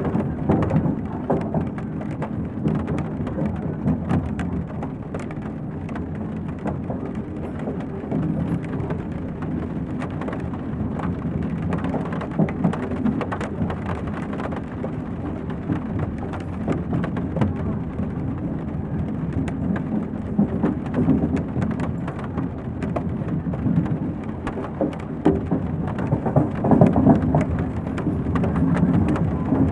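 Train dining-car ambience: the steady low rumble of the train running, with light rain ticking and pattering on the window throughout.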